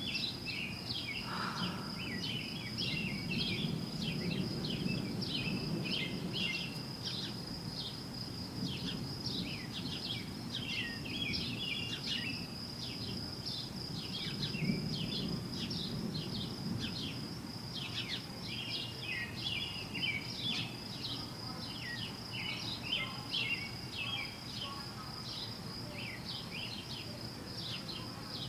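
A distant, unexplained roar from the sky, almost thunderous but constant, like a great rushing of wind, swelling and fading in strength. Birds chirp continually over it, along with a steady high-pitched whine.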